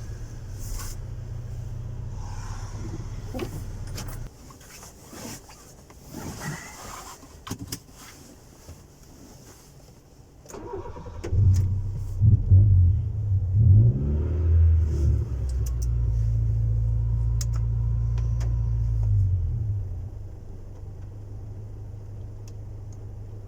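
Honda Civic 1.4i S 1.4-litre four-cylinder (non-VTEC) running through a custom exhaust: it idles, stops about four seconds in, and after a few clicks is started again about ten seconds in. It is revved a few times, held at a steady higher speed, and drops back to a steady idle about twenty seconds in.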